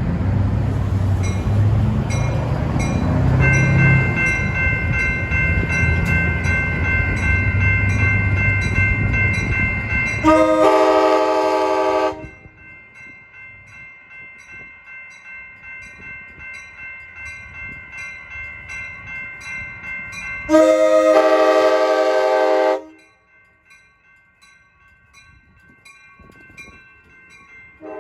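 Amtrak passenger train pulling out: the train's rumble for about ten seconds, then two blasts of its chime air horn about ten seconds apart, each roughly two seconds long, and the start of another right at the end. A bell dings steadily underneath from a few seconds in.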